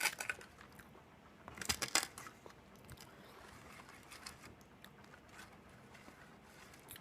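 Close-up eating sounds of a waffle: a burst of crunchy bites about one and a half to two seconds in, with faint chewing and small clicks around it.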